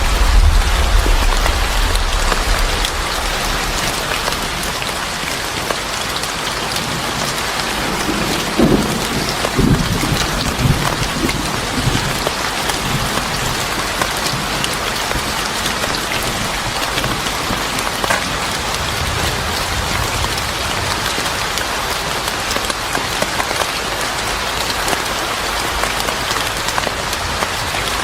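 Steady, heavy rain pouring, with a deep thunder rumble at the start that fades over the first couple of seconds and another low rumble of thunder about nine to twelve seconds in.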